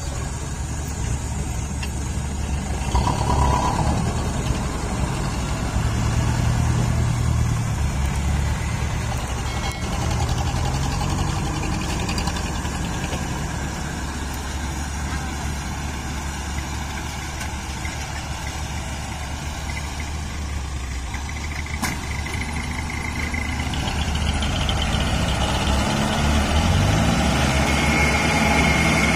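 Dump truck's diesel engine running near idle, revving up a few seconds before the end.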